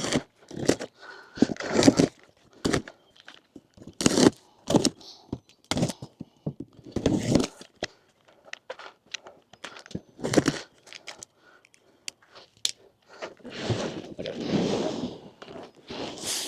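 Kit packaging and parts being handled while unpacking: irregular thunks, crunches and scrapes. There are longer stretches of rustling near the end.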